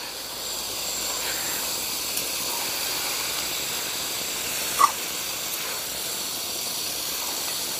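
Chicken pieces and masala spices frying in a hot aluminium kadhai, a steady sizzle as the spices are browned. One short, sharp sound about five seconds in.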